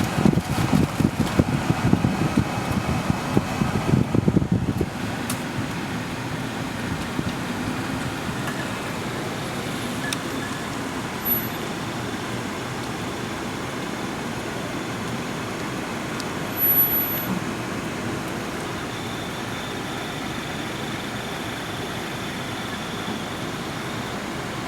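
Steady running noise of a car heard from inside the cabin, rougher and louder low rumbling for the first four seconds or so, then an even hum.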